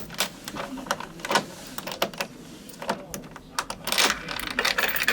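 A run of irregular sharp clicks and light knocks, several a second, thickest about four seconds in.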